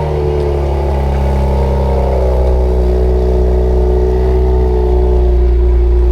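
Car engine idling just after a cold start, running loud and steady, its pitch easing down slightly over the first few seconds and then holding.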